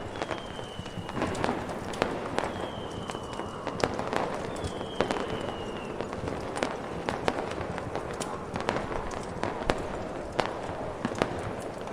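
Fireworks ambience: scattered sharp pops and crackles over a steady rushing hiss. Three short whistles, each about a second long and falling slightly in pitch, come in the first half.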